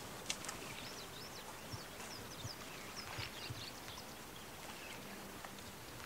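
Small birds chirping: a quick run of short, high, sweeping notes over the first half or so, over a faint steady rush of flowing river water.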